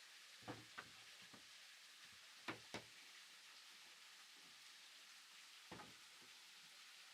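Faint steady hiss with a few light, sharp knocks: a quick pair about half a second in, another pair about two and a half seconds in, and a single knock near six seconds.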